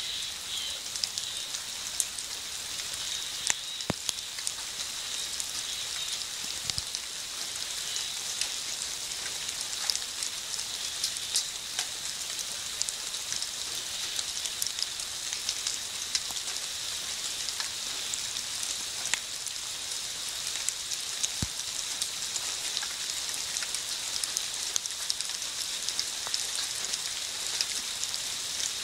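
Steady thunderstorm rain, with frequent sharp ticks of drops striking a hard surface close by.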